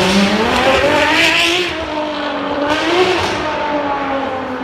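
Ferrari 599's V12 accelerating hard, its engine note rising in pitch for about half a second and then holding, with a rasping rush over the top twice. The note eases off slightly near the end.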